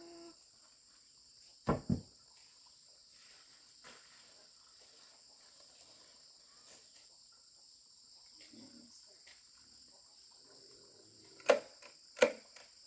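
Steady high chirring of crickets in the background. A double sharp knock comes about two seconds in, and two more come near the end.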